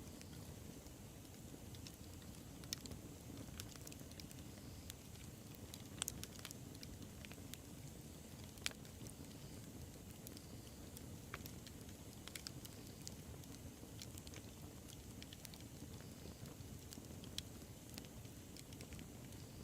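Wood bonfire burning: a low, steady rumble of flame with scattered, irregular crackles and pops. A few pops stand out louder, about 3, 6 and 9 seconds in.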